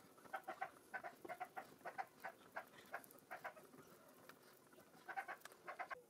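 Faint bird calls: short chirps repeated several times a second in two bursts, with a pause of about a second and a half between them.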